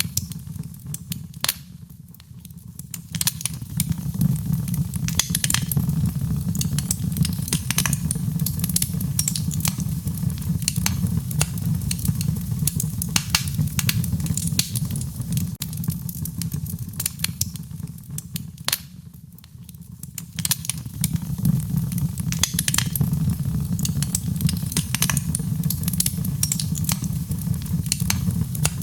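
Wood fire burning in a fireplace: a steady low rumble with frequent sharp crackles and pops of burning wood. The rumble dips briefly twice, about two seconds in and again a little before the twenty-second mark.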